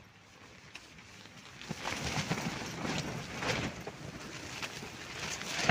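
Strong wind gusting against a tent, the fabric walls flapping and slapping in an irregular clatter. It comes up suddenly about two seconds in after a quieter lull.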